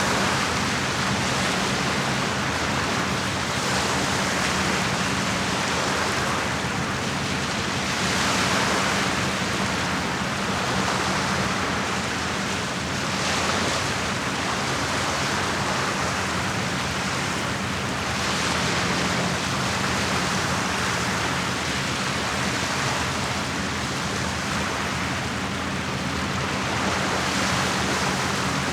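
Small lake waves washing against the shore, a steady wash that swells every few seconds. A faint low steady hum runs underneath.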